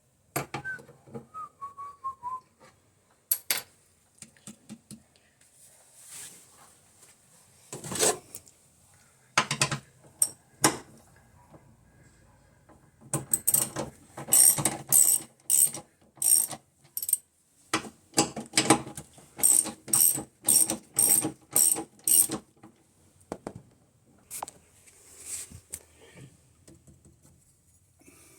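Repeated sharp mechanical clicks and knocks from hands-on work on a washing machine's mechanism, including two runs of strokes at about two a second. A short falling whistle sounds about a second in.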